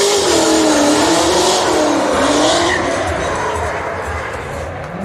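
Drift car sliding with its tyres squealing and the engine note wavering up and down, loud.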